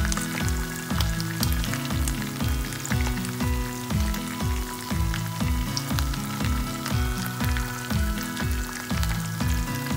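Coated chicken pieces frying as karaage in shallow oil in a frying pan: a steady sizzle with small pops. Background music with a steady electronic beat plays over it.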